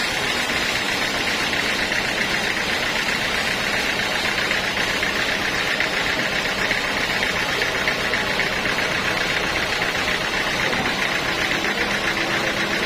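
Sawmill machinery running steadily: a loud, even mechanical noise. A low steady hum joins about a second before the end.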